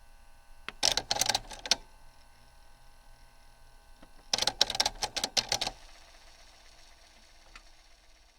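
Cassette deck mechanism of a Sony CMT-J100 stereo clattering in two bursts of rapid clicks, about a second in and again around four seconds in, over a faint steady hum.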